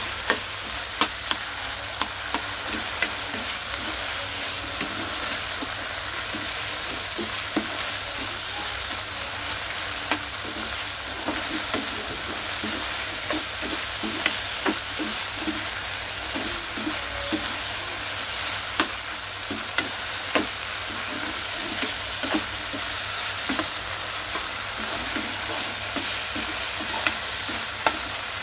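Chicken in a cornflour-thickened black pepper sauce sizzling in a pan, a steady hiss, while it is stirred with a utensil that clicks and scrapes against the pan at irregular moments.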